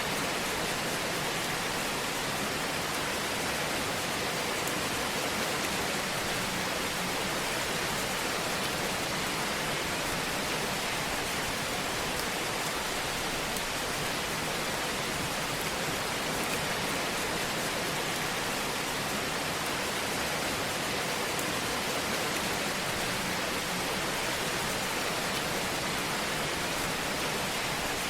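Steady hiss of a wood fire in a fireplace, with a few faint crackles.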